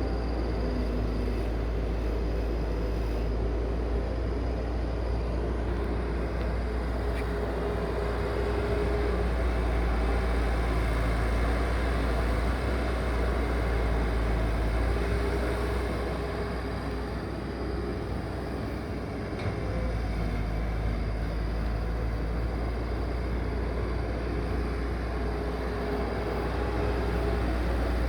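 A large engine running steadily with a deep rumble, and a faint whining tone that comes and goes above it. The level dips briefly a little past the middle.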